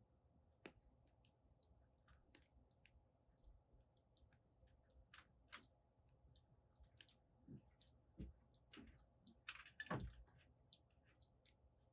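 Firewood burning in a fire pit, crackling faintly with irregular small clicks and pops, the loudest pops coming about ten seconds in.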